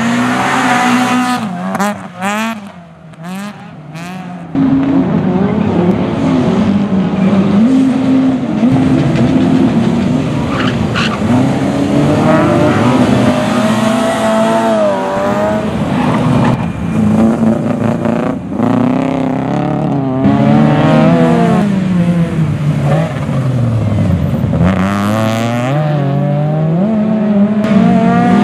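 Rally car engines revving hard on a circuit, the pitch climbing and dropping again and again through gear changes and lifts. It is quieter for a couple of seconds near the start, then suddenly loud again about four and a half seconds in.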